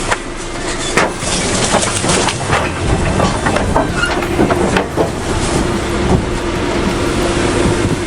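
Lorry heard from inside the cab, running steadily at low speed, with a scatter of sharp knocks and rattles.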